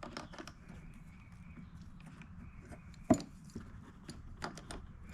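Scattered light clicks and taps of pliers working on parts inside a small inverter generator's housing, with one sharp click about three seconds in.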